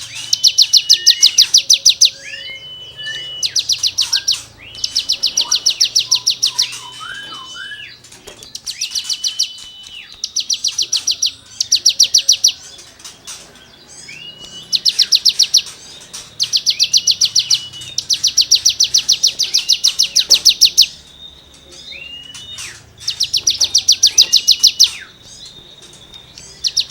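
Cigun songbird singing repeated bursts of rapid, scratchy trills (the 'gesekan' rattle fired off in 'nembak' style). Each burst lasts about one to three seconds, with short rising whistled notes between the bursts.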